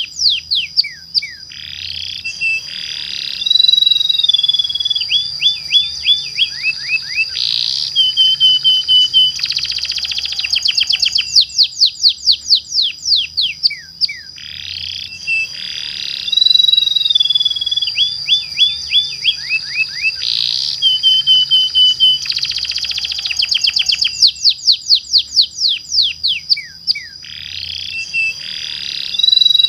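Domestic canary singing a long, continuous rolling song: rapid down-sweeping notes, fast rattling trills and held high whistles with barely a break. The same run of phrases comes round about every 13 seconds.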